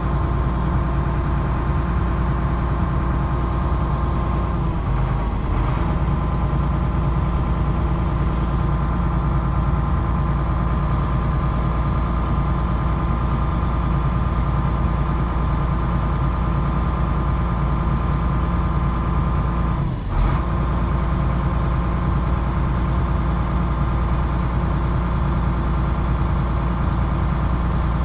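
Excavator's diesel engine running steadily, with a brief drop and click about twenty seconds in.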